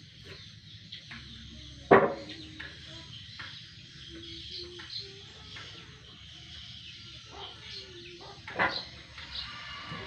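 Birds chirping in short high calls, with two loud knocks about seven seconds apart, the first the louder.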